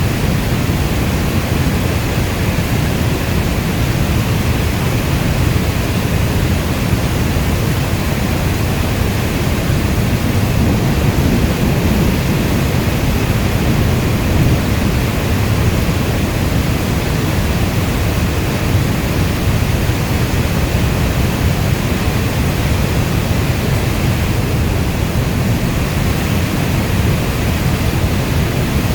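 Steady rainstorm: a dense, even hiss of rainfall with a heavy low rumble underneath.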